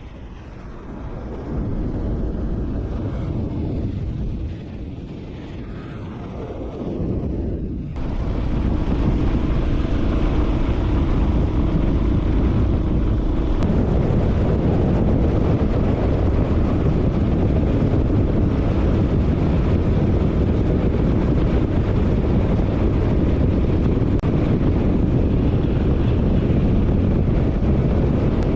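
Motorcycle under way on the road: engine running and wind rushing over the microphone. For the first several seconds the sound swells and fades; about eight seconds in it changes abruptly to a steady, louder rush.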